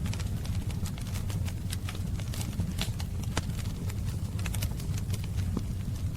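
Wood fire crackling: irregular sharp pops and snaps, several a second, over a steady low rumble of the flames, with a few louder pops near the middle.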